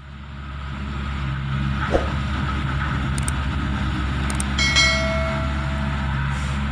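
Diesel engine of heavy earthmoving machinery running steadily, with a few light clicks and a short high tone about five seconds in.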